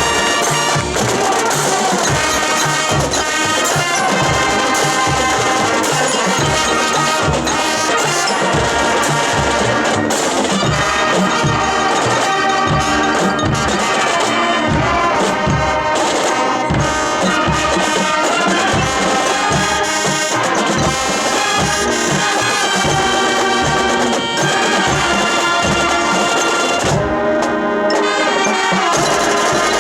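High school marching band playing: brass section with a steady bass-drum beat from the drumline.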